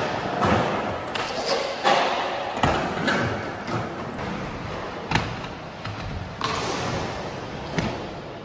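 Skate wheels rolling on skatepark ramps, with irregular hard thuds and slams from landings and boards striking the ramps, a few seconds apart.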